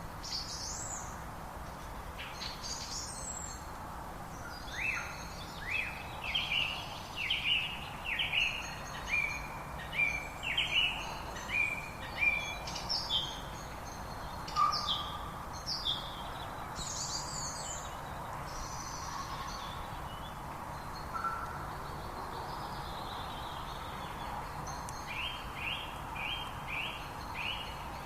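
Birds singing: a run of short, sharply falling whistled notes, about one a second, then a quicker burst of similar notes near the end, over a steady background hiss.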